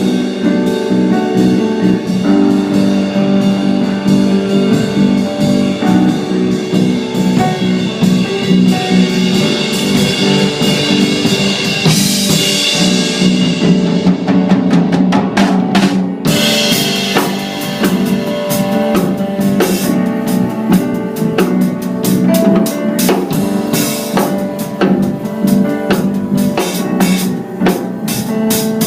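A band plays an instrumental passage of a song, with the drum kit to the fore: bass drum, snare and rimshots under sustained chords. About halfway through a hissing wash swells up and breaks off abruptly, and the band comes back in at full strength.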